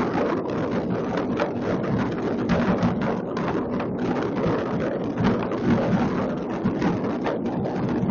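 Fireworks going off all over a city: many bangs and crackles overlapping into a dense, unbroken clatter.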